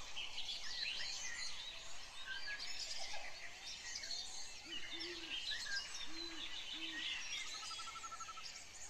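Several birds chirping and singing at once in quick high warbles, with a few low short coos about halfway through and a brief rapid trill near the end.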